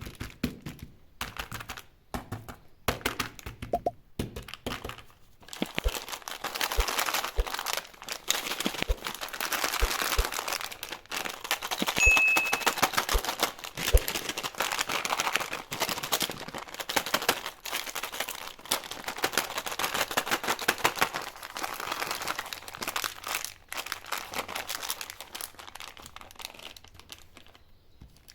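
Candy wrappers crinkling and tearing as sweets are unwrapped. A few separate taps and clicks come first, then several seconds of dense crinkling and rustling, thinning out near the end.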